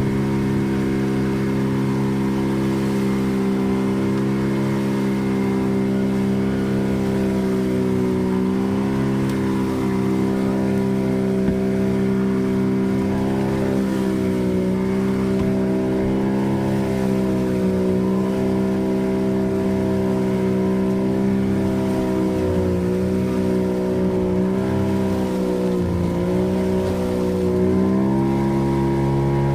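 Boat engine running steadily under way, its pitch dipping slightly and recovering several times.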